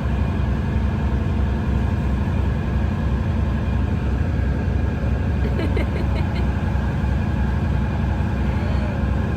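A boat's engine running steadily under way, a constant low drone heard on board.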